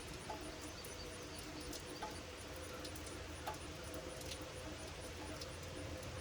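Steady summer rain falling, an even hiss with scattered sharp drip ticks, and a few faint short bird calls.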